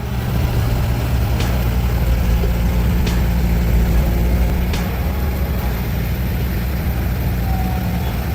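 Heavy truck engine running steadily at low revs, with a few faint clicks.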